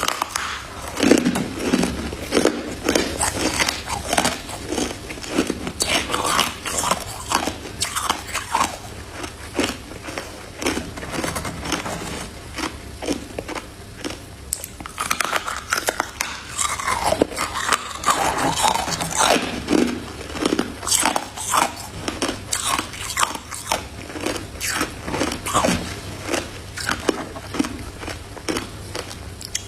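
A person biting and chewing crunchy white freezer frost ice, a dense, continuous run of crisp crunches close to the microphone.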